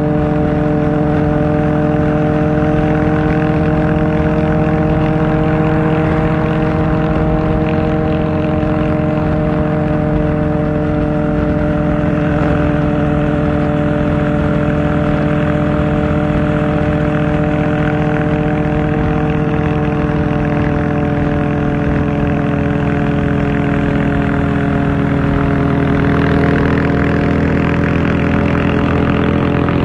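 Kawasaki Ninja ZX-4R's inline-four engine through an Akrapovic exhaust, running at steady revs, its pitch easing slightly lower near the end.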